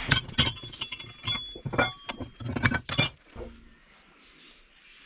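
A quick, irregular series of light metallic clinks and knocks, some ringing briefly, for about three seconds, then stopping.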